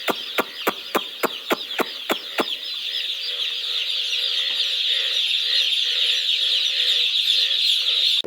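A large flock of poultry chicks cheeping continuously in high-pitched overlapping peeps. A regular clicking, about four times a second, runs over them and stops about two and a half seconds in.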